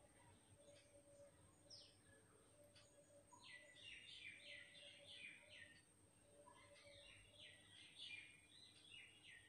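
Near silence with faint birdsong: a run of quick repeated chirps about three and a half seconds in, and another about seven and a half seconds in.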